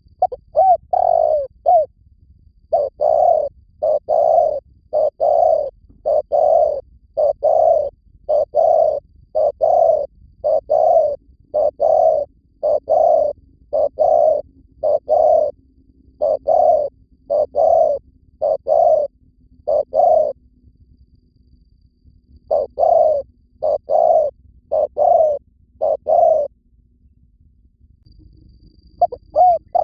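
Spotted dove cooing over and over, about one coo a second, in long runs broken by short pauses: the male's territorial song, used as a lure call.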